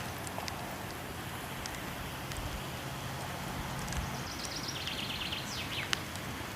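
Steady rush of falling water mixed with scattered sharp crackles of a wood fire. About four seconds in, a bird gives a short rapid trill that steps down in pitch, followed by a quick falling note.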